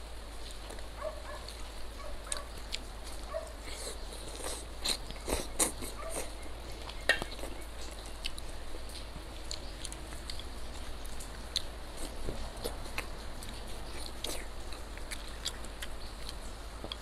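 Close-miked eating: wet chewing and lip smacks, with irregular short clicks of the mouth.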